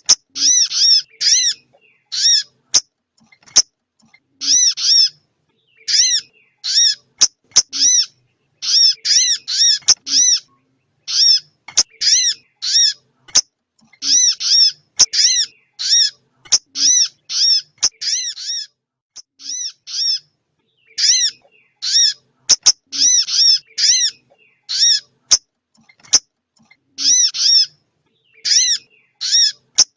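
Lure recording of small-bird calls played from an MP3 player: short, sharp arched chirps in quick groups of two to five, repeated over and over with brief gaps. A few faint clicks come in between.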